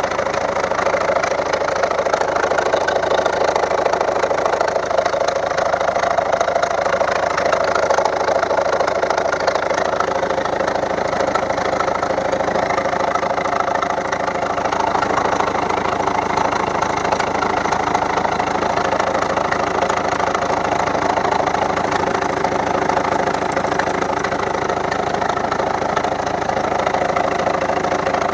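A Volvo V70's 1.6-litre turbodiesel engine idling steadily with a knock. The owner traced the knock to a failed copper sealing washer on one injector, whose well had flooded with engine oil.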